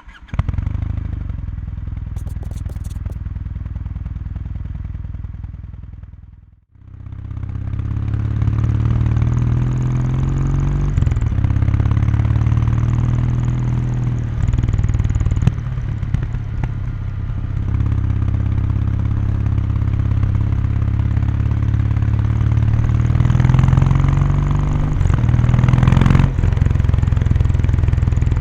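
Kawasaki Meguro K3's air-cooled 773 cc parallel-twin exhaust under way, accelerating: the engine note rises and drops back at each upshift, several times. A steady stretch at the start fades away to a brief gap about six and a half seconds in before the engine comes back.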